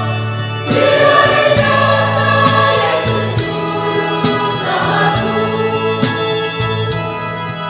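A church choir singing together over sustained low bass notes, with a sharp beat about once a second.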